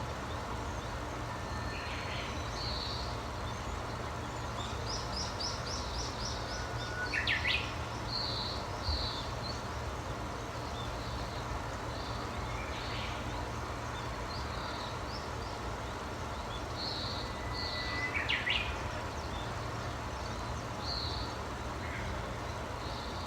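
Several wild songbirds singing and calling, with short chirps scattered throughout and a quick trill of about eight notes around five seconds in. Two louder song phrases stand out, each a held whistle breaking into a quick flourish, about seven and eighteen seconds in. A steady low background hum runs under the birds.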